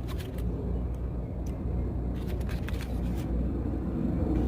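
Steady low rumble of city street traffic, with a few short clicks and ticks scattered through it.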